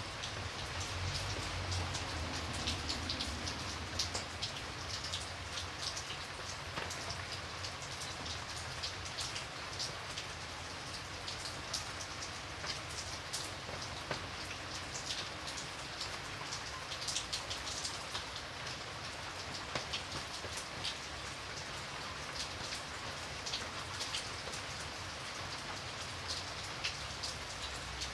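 Steady rain falling on a window, a continuous patter with many small irregular drop ticks.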